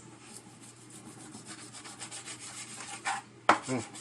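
Knife sawing back and forth through raw meat on a wooden cutting board, slicing strips for jerky: a quick run of rasping strokes, then a sharp knock on the board near the end.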